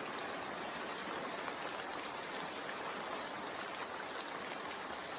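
Steady rain from a relaxing rain-sound track: an even hiss that does not change.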